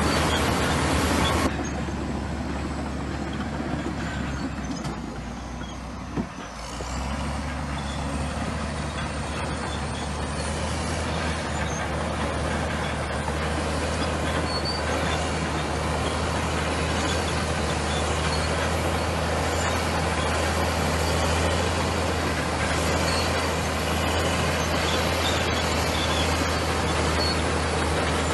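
Komatsu bulldozer's diesel engine running steadily under work. The sound changes abruptly about a second and a half in, a short knock comes about six seconds in, and then the engine grows louder again and holds steady.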